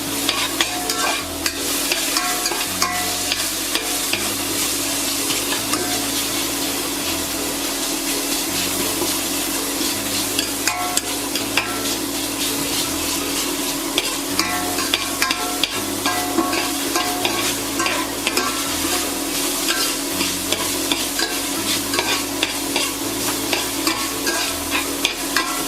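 Onion, ginger garlic paste and green chilies frying in olive oil in a pan, sizzling steadily, with a utensil clicking and scraping against the pan as they are stirred.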